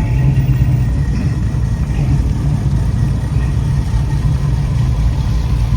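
Engines of a line of club cars, classic and muscle cars, running as they drive in, a steady deep engine sound.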